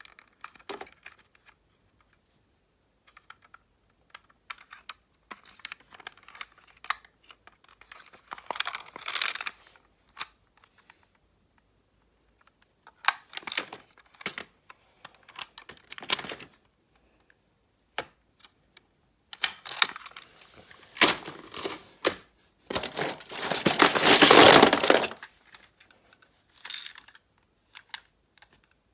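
Irregular clicks and short rustling, scraping handling noises close to the microphone, with the longest, loudest rustle about three-quarters of the way through.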